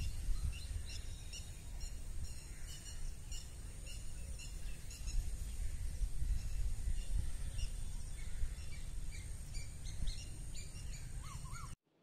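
Small birds chirping in quick, short calls over wind rumbling on the microphone. It all cuts off suddenly near the end.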